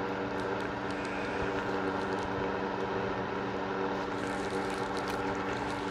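Steady droning hum of a motor running at constant speed, with a few faint light clicks over it.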